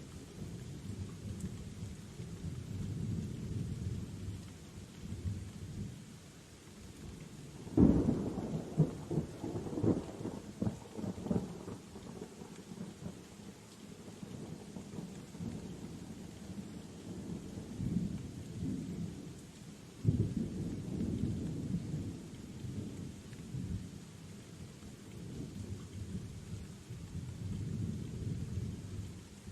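Steady rain with low thunder rumbling throughout. A sharp thunderclap about eight seconds in is the loudest sound, and it rumbles on for several seconds; another peal comes about twenty seconds in.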